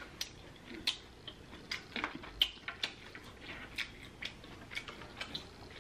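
Close-miked eating: chewing with wet mouth clicks and lip smacks, about a dozen sharp ones at irregular intervals.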